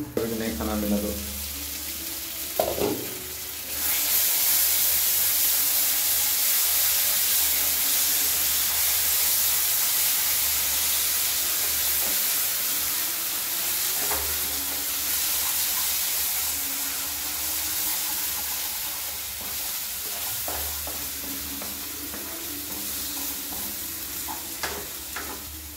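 Masala paste sizzling and frying in a nonstick pan while a wooden spatula stirs it: a few light knocks at first, then a steady loud sizzle from about four seconds in that eases a little near the end.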